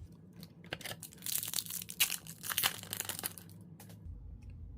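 Plastic wrapper of a trading-card pack being torn open and crinkled, a crackling rustle that is densest in the middle and trails off near the end.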